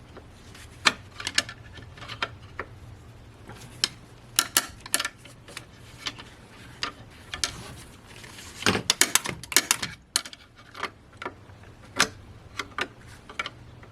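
Irregular metallic clicks and clinks of a screwdriver working at a stuck nut, coming in clusters about four seconds in and again near nine seconds.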